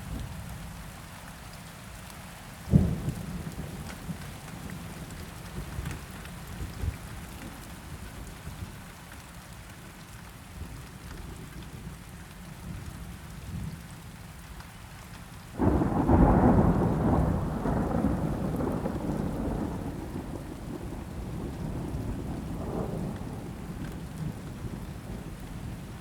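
Steady rain falling during a thunderstorm. A sharp thunder crack comes about three seconds in. Past the middle, a long thunder roll starts suddenly, loud at first, and rumbles away slowly over several seconds.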